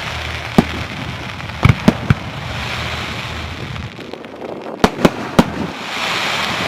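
Fireworks display: sharp bangs of bursting fireworks, a few single reports and two quick clusters of three, over a steady hiss that swells near the end.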